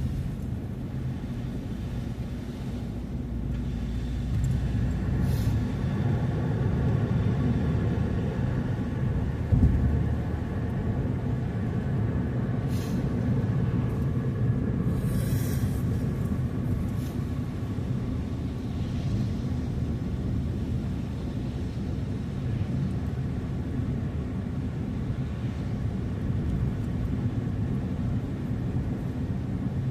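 Car driving: a steady low rumble of engine and road noise, with a few brief hissing sounds in the middle.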